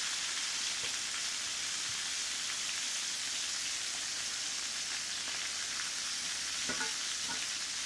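Chicken thighs, shallots and lemon slices frying in oil in a cast-iron pan: a steady sizzle, with a few faint clicks of metal tongs in the pan, mostly near the end.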